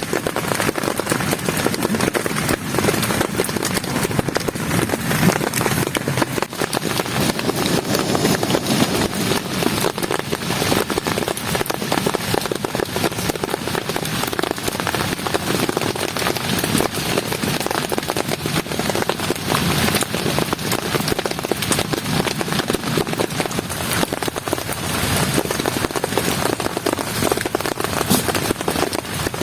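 Heavy rain falling steadily: a dense, unbroken hiss of many small drop impacts.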